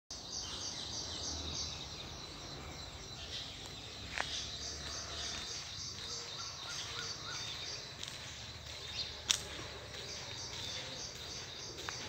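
Small bird chirping, a high chirp repeated about three times a second, with a sharp knock about four seconds in and a louder one later on.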